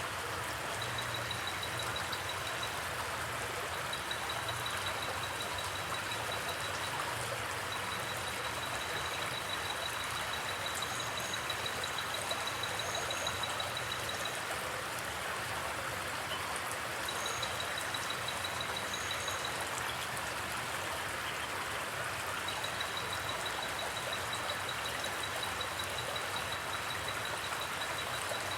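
Steady rushing noise at an even level, with a faint, rapidly pulsing high tone that comes and goes several times.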